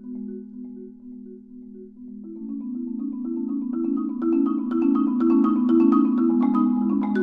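Marimba music: a sparse, repeating pattern of mallet-struck wooden bar notes. About two seconds in, the playing grows denser and louder as two marimbas play together.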